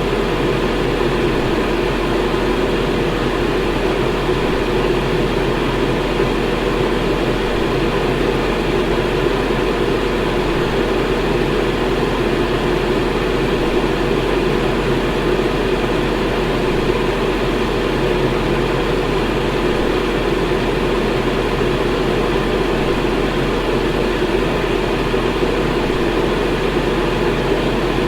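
Electric fan running steadily: a constant whooshing air noise with a low hum underneath.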